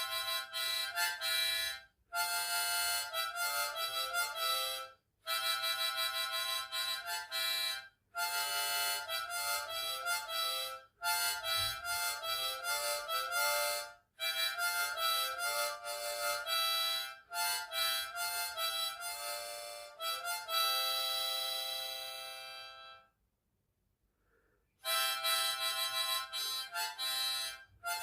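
Diatonic harmonica playing chords and melody in short phrases with brief breath gaps. It holds one long chord, stops for about two seconds, then starts again near the end.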